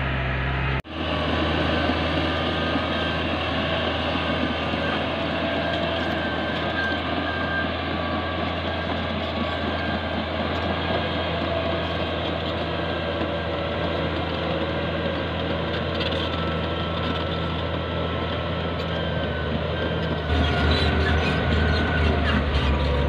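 Caterpillar D6G bulldozer's diesel engine running steadily, with a brief break about a second in and a little louder in the last few seconds.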